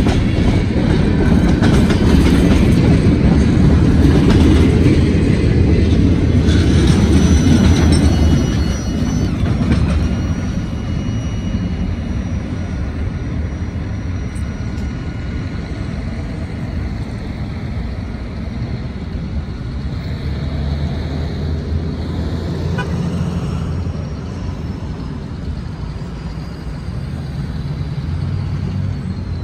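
Freight train on the Cincinnati Eastern Railroad rolling past. A loud rumble drops to a quieter one about eight seconds in, and thin high-pitched tones hold for several seconds from about seven seconds in.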